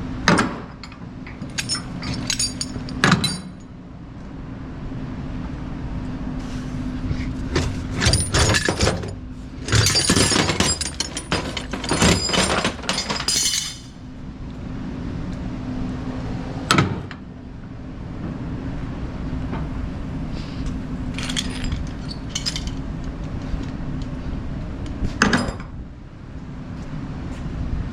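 Metal gear clanking and rattling in bursts as chains and hardware are rummaged through and pulled out of a cluttered storage box, over a steady low hum.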